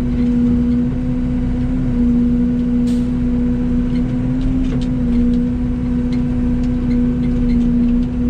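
Yanmar excavator's diesel engine running steadily under work, a constant even hum, with a few light clicks and knocks from the machine handling pipe.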